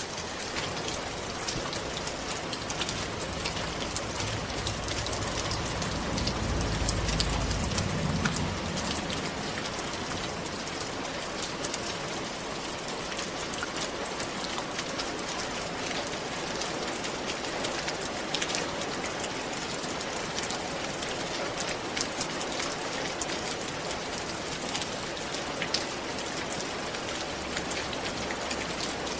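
Rain falling on a roof: a steady hiss dotted with many sharp drop ticks, with a short low rumble about six seconds in.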